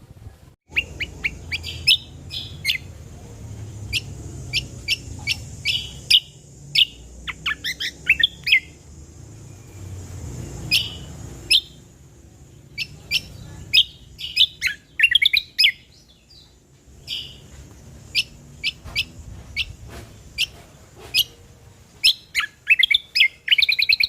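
Cucak kombo (kecial kombok) songbird singing, in bursts of sharp chirps and quick rattling trills separated by short pauses, starting just under a second in.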